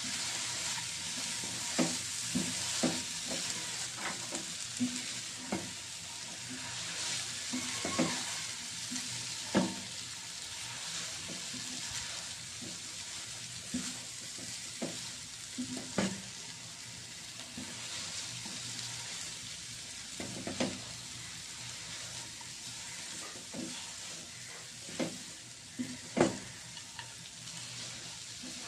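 Lachha vermicelli and sugar sizzling in a pan with a steady hiss, while a spatula stirs and scrapes. The spatula knocks against the pan at irregular intervals.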